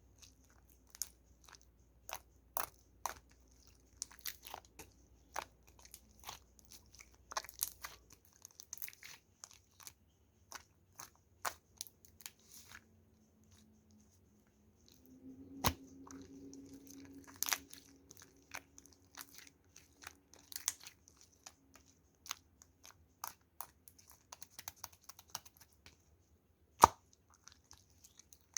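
Clear slime being worked by hand, making irregular small clicks and pops, with one louder click near the end.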